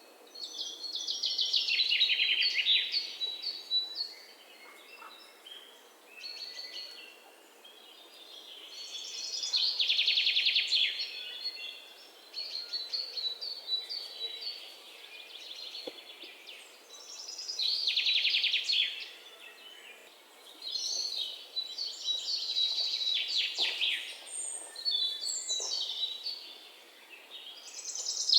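A songbird singing in repeated bursts of rapid, high trilled song, each about two seconds long and coming every several seconds, with quieter chirps in between.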